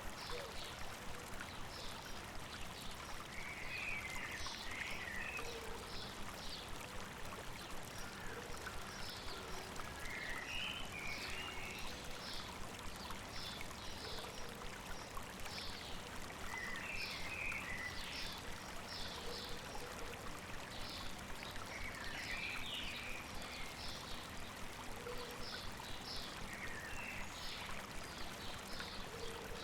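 River water rushing steadily over rocks, with birds calling over it: one bird repeats short high notes about twice a second throughout, and a quick cluster of lower chirps comes about every six seconds.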